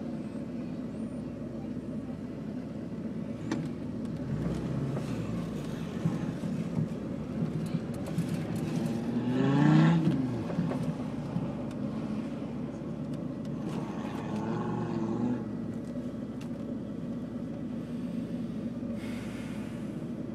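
Car engine idling, heard from inside the cabin, with one brief rev that rises and falls about halfway through as the car moves up to the start line.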